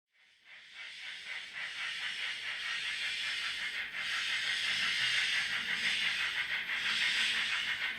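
Model steam locomotive running, a steady hiss with a fast, even beat through it. The sound cuts out right at the start and builds back up over about a second and a half.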